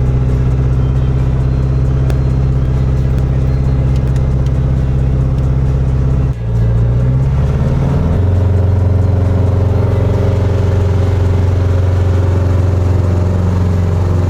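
Piper Comanche's piston engine and propeller running with a steady drone, which dips about six seconds in and settles at a lower steady pitch as power is reduced.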